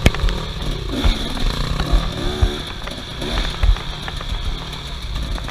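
Off-road vehicle engine revving up and down while driving over rough ground, with repeated short low thumps.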